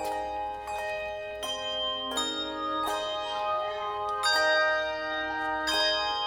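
Tuned bells playing music in chords: several notes struck together, each ringing on with bright overtones until damped, with a new chord every second or so.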